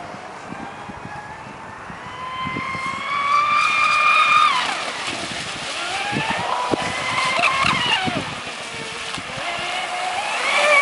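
Traxxas Spartan RC boat's brushless electric motor whining under throttle. A high whine climbs and holds for a couple of seconds, then drops away; it comes again about halfway through and once more near the end.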